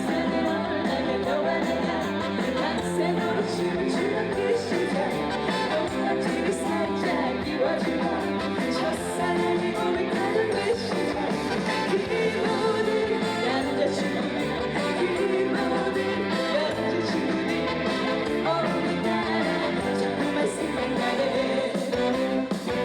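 A woman singing a song live over a band accompaniment, amplified through the stage sound system.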